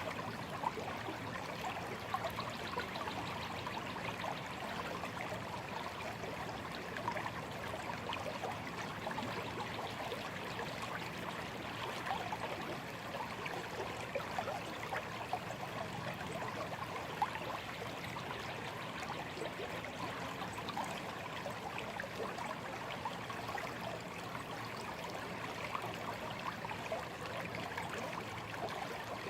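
A shallow stream running steadily, its water trickling and babbling over stones.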